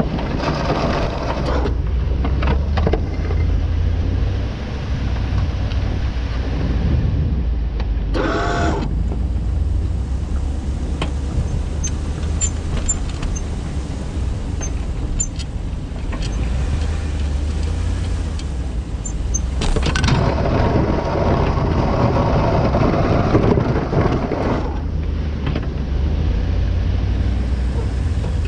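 A motor vehicle driving, with a steady low engine and road rumble. Road noise swells for a few seconds about two-thirds of the way through, with a brief louder hiss earlier.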